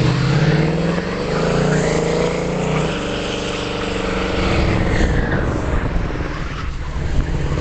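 Motor vehicle engine running hard under acceleration, its pitch climbing over the first few seconds, then falling back as it eases off.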